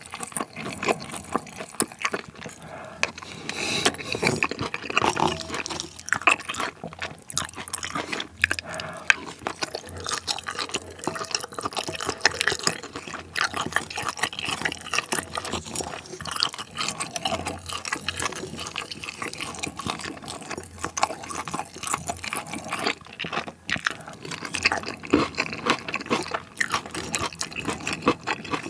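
Close-miked wet chewing of a mouthful of curry rice, with a wooden spoon clicking and scraping against a ceramic bowl as the last of the rice is gathered up. Many small clicks and wet smacks follow one another throughout.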